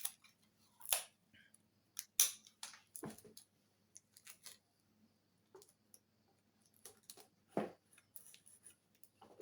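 Packaging tape being pulled off the roll, cut and pressed over a hole in an RC airplane wing: scattered crackles and clicks, a few sharper ones standing out.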